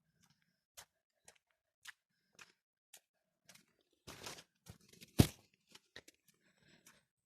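Light clicks about two a second in a small room, a brief rustling noise a little past four seconds, then one sharp loud knock about five seconds in.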